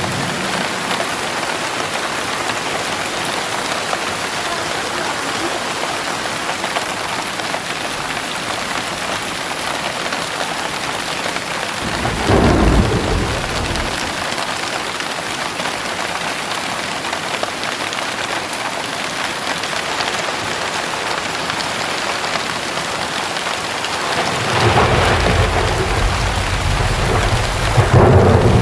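Heavy rain falling steadily, with rolls of thunder: one short rumble about halfway through and a longer, louder one building near the end.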